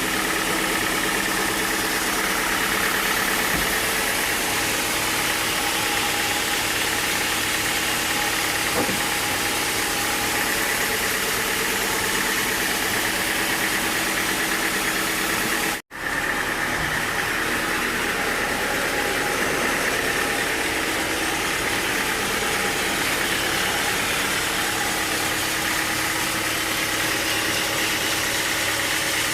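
Engine-driven sawmill running steadily, with an even engine drone and noise throughout; the sound cuts out for an instant just past halfway.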